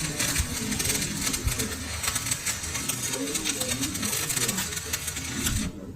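Workshop lathe running with a dense, rapid mechanical rattle of clicks, which stops abruptly near the end.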